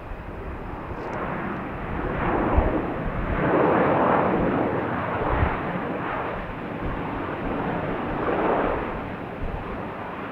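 An airplane passing, its engine noise a broad, wavering rush that builds to its loudest about four seconds in and eases off near the end.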